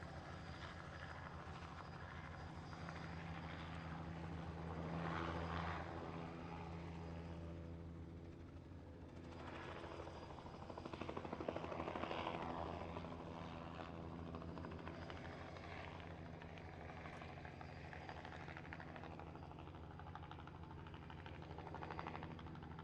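Helicopter running steadily, with a fast rotor beat over a low engine drone. The sound swells louder twice, around five seconds in and again around twelve seconds in.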